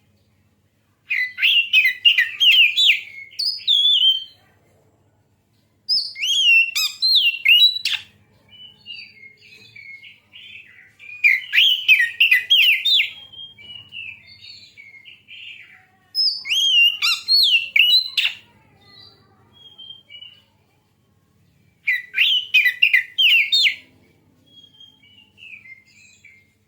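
Oriental magpie-robin singing: five loud phrases of fast, varied whistled notes, each a couple of seconds long and about five seconds apart, with softer scattered notes between them.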